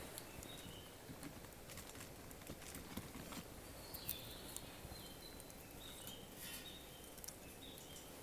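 Faint, scattered crackles and ticks of a small wood campfire just getting going on kindling, with short high bird calls in the background.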